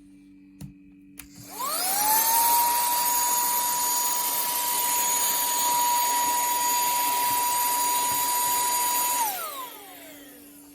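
A TEMOLA cordless handheld vacuum with a brushless motor, preceded by a few light clicks. It is switched on and its whine rises quickly to a steady high pitch over a rushing of air. It runs for about seven seconds, then falls in pitch and fades as it is switched off and spins down.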